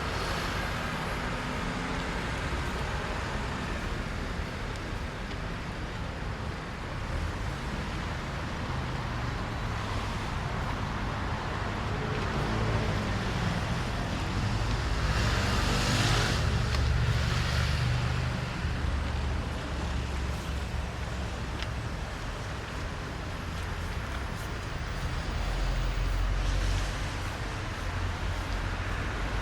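Road traffic on a wet street: a steady rumble of passing vehicles, with one vehicle going close by about halfway through, its tyres hissing as it passes, and another lower rumble going by near the end.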